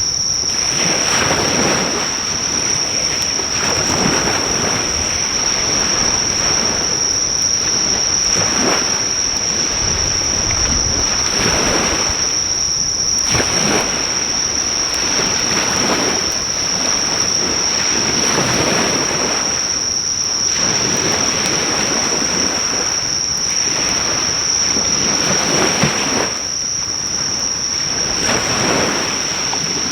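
Waves breaking on the shore in repeated swells every few seconds, over a steady high-pitched chirring of insects. The crackle of a driftwood fire is faint beneath them.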